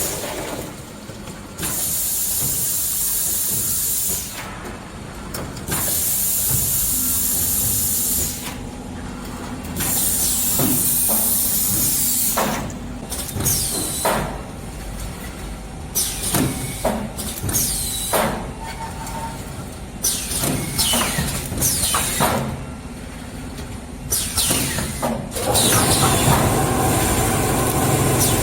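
Four-lane automatic plastic cup filling and sealing machine running: loud hissing blasts from its compressed-air system, each lasting about two seconds and coming every few seconds, with sharp clicks and short high squeaks between them over a steady low mechanical hum.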